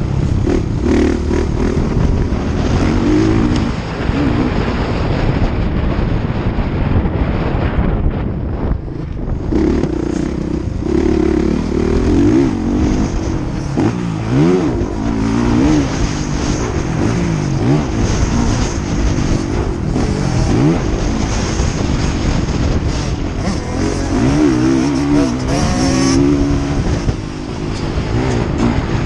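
Several motocross bike engines revving up and down as they ride, their pitches rising and falling and overlapping, over a constant low rumble.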